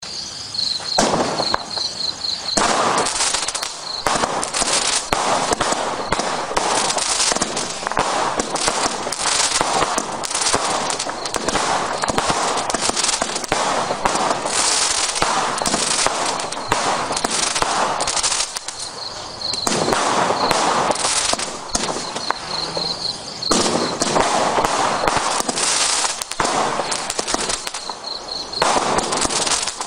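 A single-ignition firework barrage firing: a dense, fast stream of launches, bangs and crackles, with only brief short lulls between volleys.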